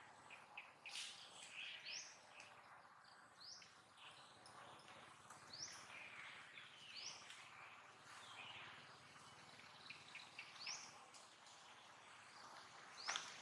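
Faint birdsong: short rising chirps repeated every second or two over a light outdoor hiss, with a few soft clicks.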